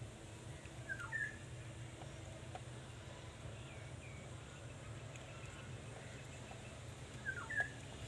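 Two short bird calls, about six seconds apart, each dipping and then rising in pitch, with a few faint chirps between them over a steady low hum.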